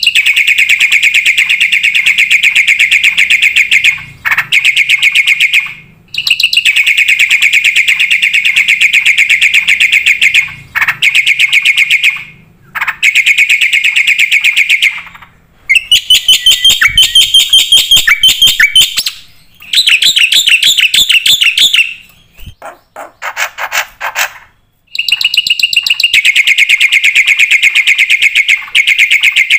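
Black-winged starling singing loud, long phrases of rapid repeated chattering notes, separated by brief pauses. Around the middle the song turns more varied, followed by a few softer, lower notes before the fast chatter resumes.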